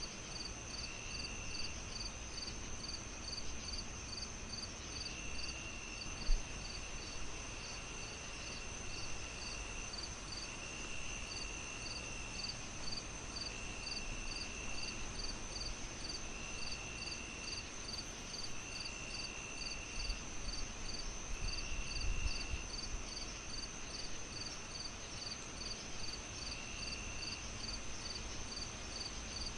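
Crickets chirping in a steady, even rhythm of about two to three chirps a second, over a continuous high insect trill, with a lower trill that comes and goes for about a second at a time. A single sharp pop stands out about six seconds in.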